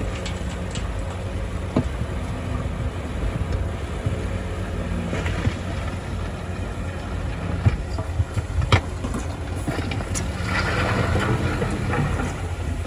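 Bulldozer's diesel engine running steadily, with a few sharp metallic clanks and a louder rush of noise near the end.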